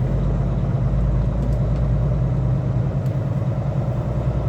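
Semi-truck diesel engine running steadily at low speed, a deep, even rumble with a fast pulse.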